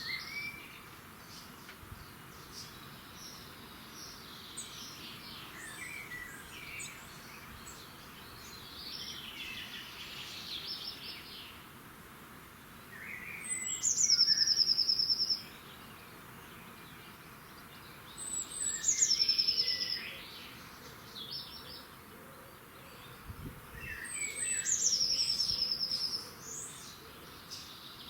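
Dawn birdsong: one songbird repeats a loud song three times, about five seconds apart, each a high note sliding down into a fast, even trill, while other birds chirp more quietly throughout.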